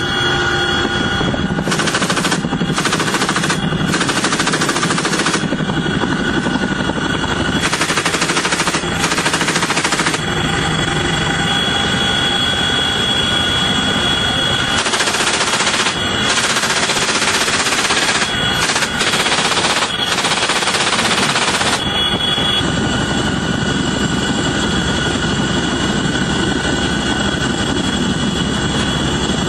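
Repeated bursts of rapid automatic gunfire from an aircraft-mounted machine gun, each burst lasting one to two seconds, over the steady engine and rotor noise of a helicopter with a high whine.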